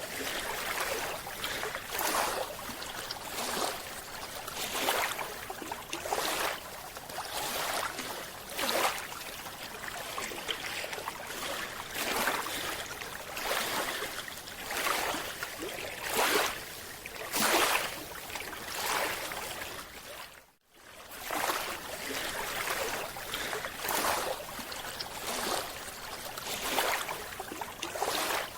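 Water sloshing and splashing in repeated surges, roughly one every second or so, briefly cutting out about twenty seconds in.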